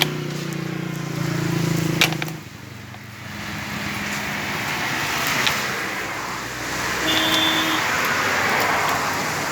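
Road traffic: a vehicle's engine runs at first, then a swell of passing-traffic noise.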